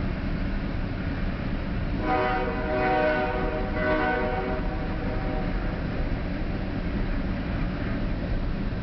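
Coal hopper cars of a CSX freight train rolling slowly past with a steady low rumble. About two seconds in, a locomotive horn sounds once for about three and a half seconds over the rumble.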